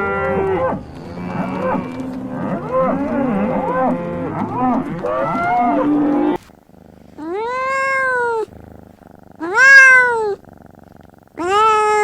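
Cats meowing. First many overlapping meows at once, which cut off after about six seconds. Then three separate long meows, each about a second, rising and falling in pitch.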